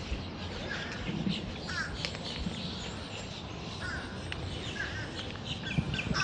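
Birds giving short, harsh calls again and again, several in a row, over a steady outdoor background.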